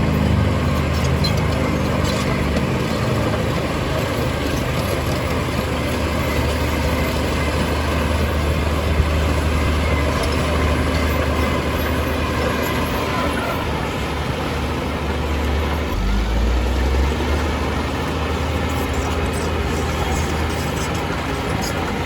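Heavy diesel earthmoving machinery running under load, with a low engine drone throughout; the revs climb briefly about sixteen seconds in.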